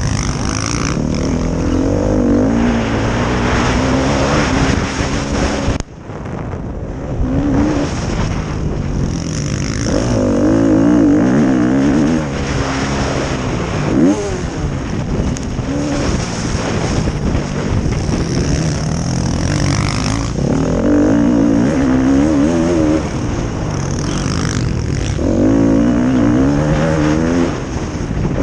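Motocross bikes racing on the track, their engines revving up and down again and again as they accelerate and back off. The sound dips briefly about six seconds in.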